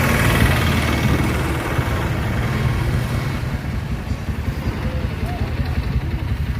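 A motor vehicle's engine running as a steady low rumble, heavier for the first two or three seconds and then easing off.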